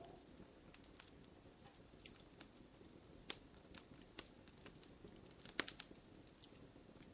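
Wood fire crackling faintly in a fireplace: scattered sharp pops and snaps over a low hiss, with a quick cluster of pops about five and a half seconds in.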